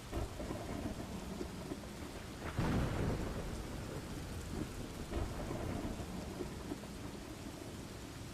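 Steady rain with rolling thunder, the loudest rumble swelling about two and a half seconds in and fading over the next second.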